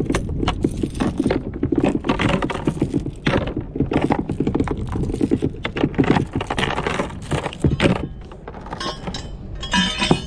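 Rapid metallic rattling and clinking, loose and continuous, with a quieter stretch about eight seconds in.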